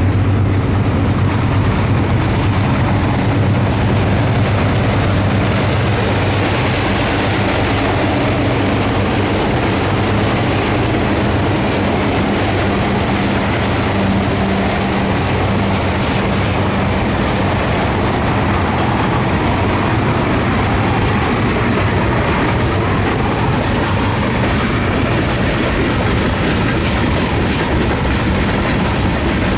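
Four Alco diesel locomotives working upgrade pass close by with a deep, steady engine drone. As the drone fades, a string of freight cars rolls past, wheels clicking over the rail joints.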